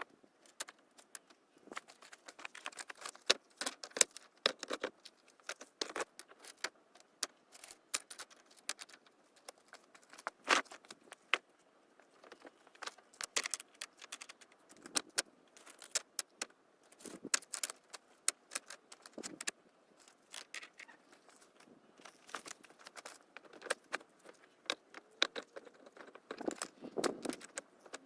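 Stones knocking and clinking together in an irregular clatter as they are handled and set in place, with a few duller knocks.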